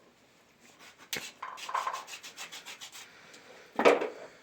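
Hand scraping or rubbing on a surface in quick, even strokes, after a sharp click about a second in. A loud, short knock near the end.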